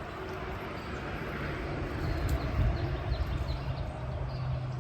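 A small engine running steadily with a low hum and rumble that swells in the middle, while birds chirp.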